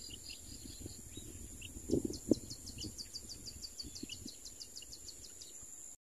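Small birds chirping: scattered high chirps, then from about two seconds in a rapid run of about six or seven chirps a second, over a steady high insect whine. A couple of soft low thumps come near the two-second mark.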